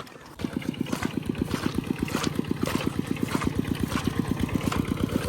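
Small engine starting up about half a second in, then idling steadily with an even low chugging of about ten beats a second.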